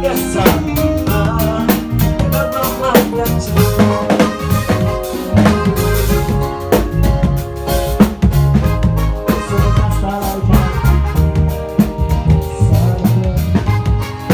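A band playing music at a sound check: a drum kit keeping a steady beat under bass and held notes from other instruments.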